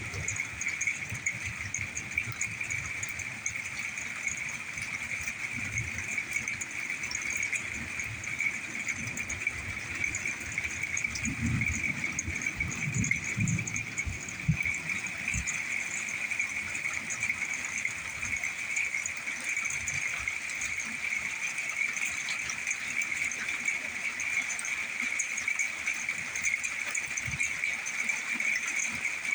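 Low rumble of distant thunder about eleven seconds in, lasting a few seconds, over a steady high-pitched chirring drone.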